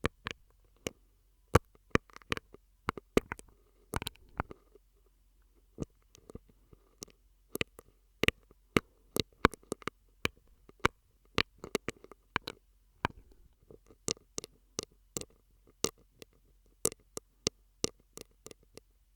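ASMR mouth sounds made into a straw close to the microphone: irregular wet clicks and pops, sometimes several in quick succession, with faint wet smacking between them.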